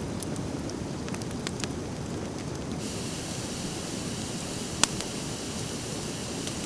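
Driftwood fire crackling, with scattered small pops over a steady rushing noise and one loud sharp snap a little under five seconds in. A steady high hiss joins in about three seconds in.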